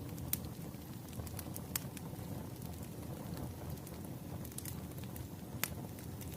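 Wood fire crackling: a steady low rumble of burning logs with a few sharp pops scattered through.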